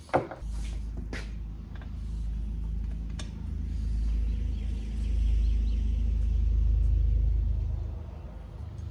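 A low, steady engine-like rumble that grows louder over several seconds and fades near the end, with a few light clicks over it.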